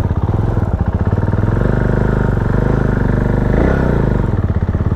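Bristol 400i Omega's 397cc single-cylinder four-stroke engine running with a rapid, even thump of firing pulses. Its pitch shifts briefly about three and a half seconds in.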